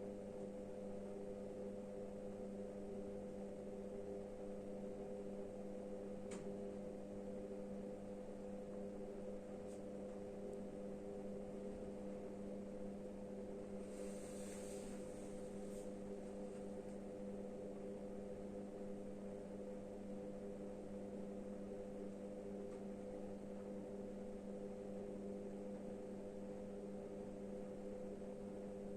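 A steady, even hum made of several fixed low tones, with a faint click about six seconds in and a brief hiss about halfway through.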